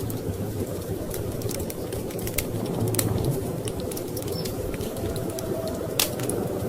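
Wood fire crackling, with sharp pops scattered through it and a loud one near the end, over a steady low rumble of storm wind.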